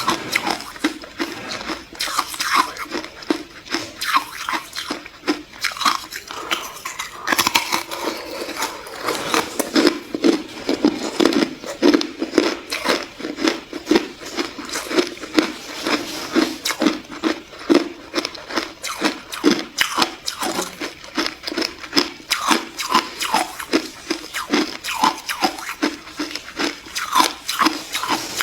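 Ice being bitten and chewed close to the microphone: a continuous run of sharp, rapid crunches as the pieces crack between the teeth.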